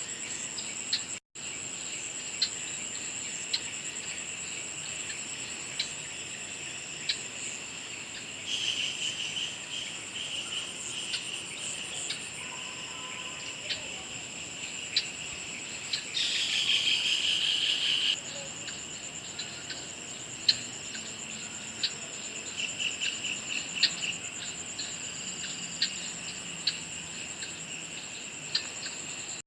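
A chorus of insects trilling: a steady high-pitched trill throughout, joined by louder buzzing trills about nine seconds in, again from about sixteen to eighteen seconds, and near twenty-three seconds, with scattered sharp ticks.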